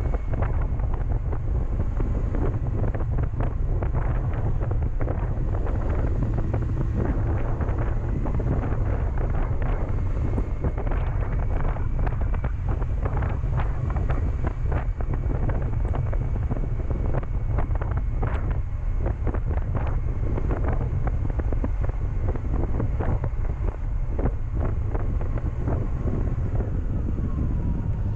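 Wind buffeting the microphone of a moving motorcycle, with the 2007 Honda CB400SF's inline-four engine running underneath. Near the end the engine note falls as the bike slows.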